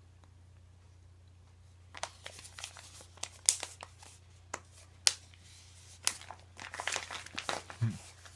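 Crinkling and crackling of a pouch of Beech-Nut chewing tobacco being handled. It starts about two seconds in as a run of sharp, irregular crackles and clicks.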